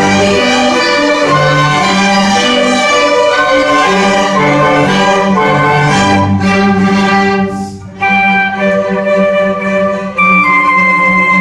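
Youth orchestra playing classical music, violins and cellos carrying the melody over sustained bass notes, with a brief pause about eight seconds in before the playing resumes.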